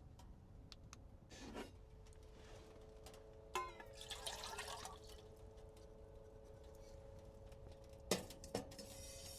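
Water being poured briefly into a cooking pot, about three and a half seconds in, just after a sharp click. Two sharp knocks of metal follow near the end.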